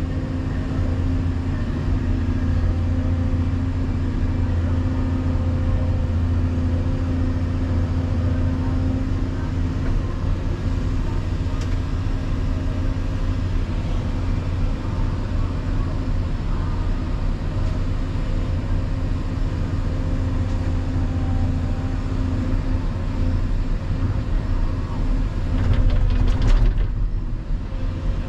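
Volvo EC220EL excavator's diesel engine running steadily under load while it works, with a short burst of clatter near the end.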